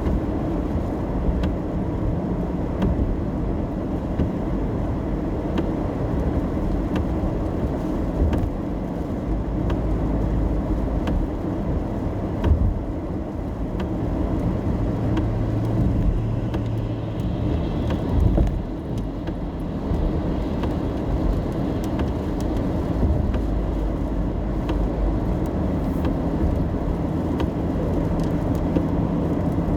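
Car interior while driving in the rain: steady engine hum and tyre and road noise, the engine note shifting a little now and then, with faint scattered ticks of rain.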